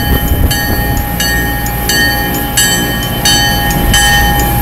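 A diesel commuter locomotive rumbles past at close range, pushing deep snow aside with its plow. Over it, a railroad crossing bell dings steadily, roughly every two-thirds of a second.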